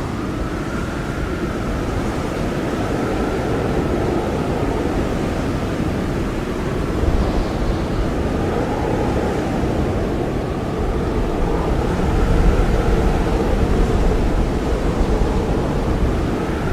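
Blizzard wind blowing hard: a steady, dense rush of noise with a faint whistling tone that slowly rises and falls in pitch.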